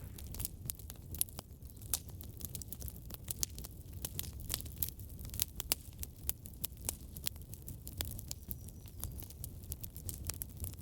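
Wood fire crackling in a fireplace: frequent sharp snaps and pops, irregular and several a second, over a steady low rumble.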